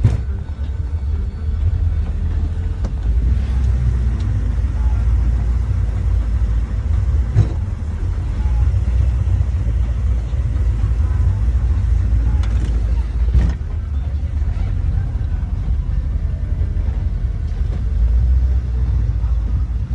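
Steady low rumble of a motorboat under way, with a couple of sharp knocks about seven and thirteen seconds in.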